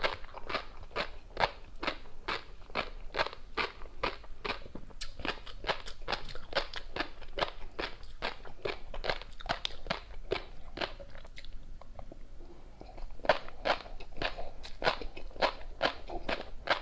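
Close-miked chewing of tobiko (flying-fish roe): a steady run of crisp crunching and popping bites, about three a second, with a short pause about two-thirds of the way through.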